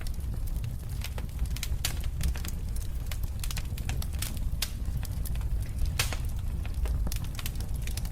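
Wood fire burning in a fireplace: irregular sharp crackles and pops over a steady low rumble of the flames, with a louder pop about six seconds in.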